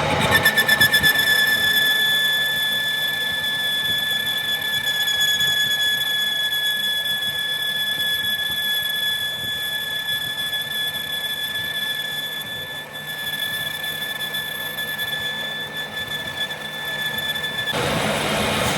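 A cutting tool squealing against metal while machining, holding one high pitch steadily for about seventeen seconds, then cutting off suddenly near the end.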